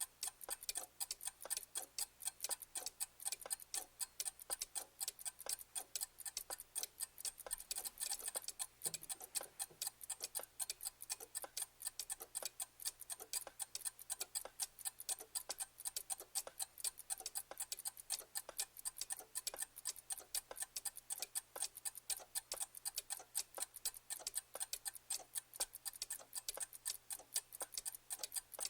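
Clock ticking steadily with crisp, rapid ticks, several a second.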